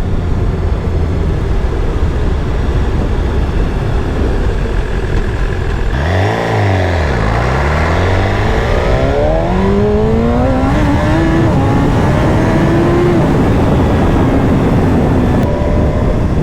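BMW S1000RR's inline-four engine running at road speed under heavy wind noise; about six seconds in the engine note dips and then climbs steadily as the bike accelerates.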